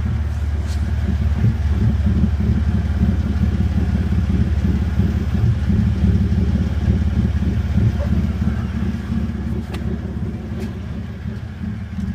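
Straight-piped exhaust of a Toyota T100's 3.4-liter V6, running with a loud, deep rumble; it swells a little about a second in and eases off somewhat near the end.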